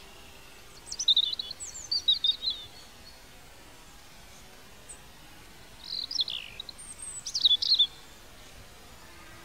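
A songbird singing two short phrases of quick, high chirps and trills, one about a second in and one around six seconds in, over a faint steady outdoor background.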